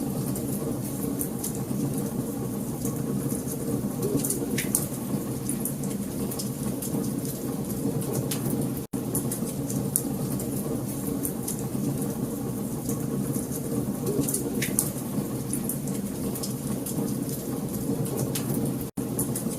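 Wood fire crackling: a steady low rush of burning with many small pops and a couple of sharper snaps. The sound cuts out for an instant about nine seconds in and again near the end.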